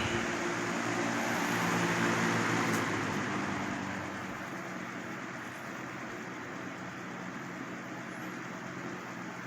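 Lasko 3720 Weather Shield 20-inch box fan with plastic blades running, a steady rush of air over a motor hum. It grows quieter between about three and five seconds in, then holds steady.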